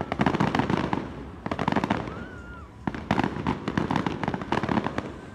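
Aerial fireworks display: rapid crackling of bursting shells, coming in several dense waves of sharp pops with short lulls between them.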